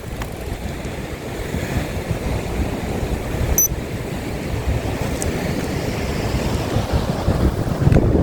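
Strong gusty wind buffeting the microphone: a steady rushing noise with an uneven low rumble that swells near the end.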